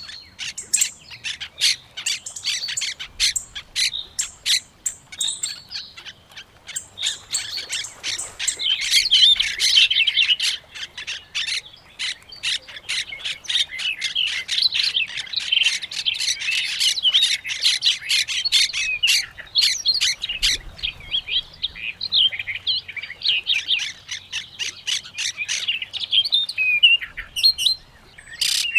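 A dense chorus of many birds chirping and calling at once: rapid, overlapping high notes, busiest from about eight seconds in.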